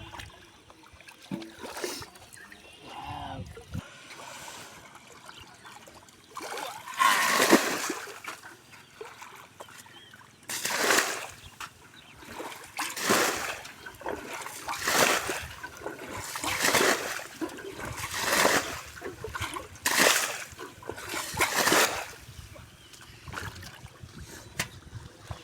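Water splashing by hand in shallow river water: one big splash about seven seconds in, then a run of seven regular splashes, roughly one every two seconds.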